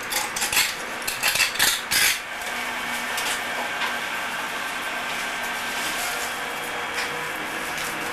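A few quick scraping strokes of a hand tool on hard material in the first two seconds, then a steady background hiss.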